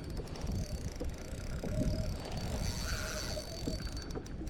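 Water sloshing against a kayak hull, with scattered small knocks and wind on the microphone.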